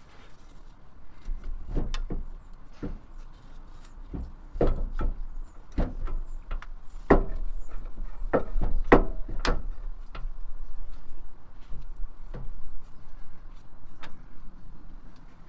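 Irregular knocks and clunks of tools and parts being handled in vehicle repair work, about a dozen sharp strikes with the loudest cluster in the middle.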